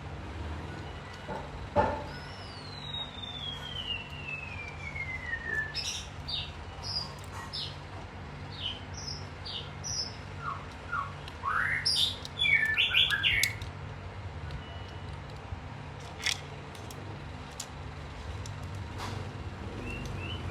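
Songbirds chirping and calling: a long whistle falling in pitch early on, then a run of short chirps and trills, loudest about twelve to thirteen seconds in. A single sharp click about two seconds in, over a low steady hum.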